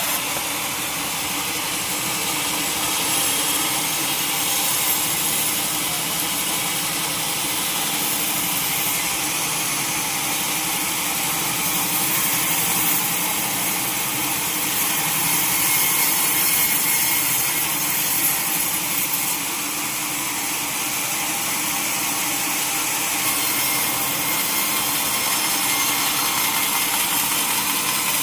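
Sawmill saw cutting steadily through a log: a continuous high hiss from the cut over a steady machine hum.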